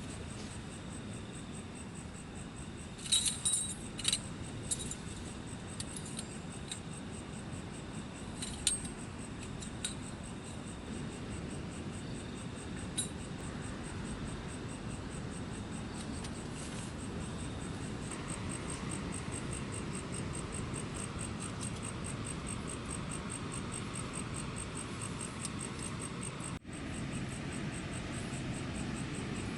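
Steady strong wind, with a thin high insect trill running under it. A few light metallic clinks come about three to four seconds in and again near nine seconds.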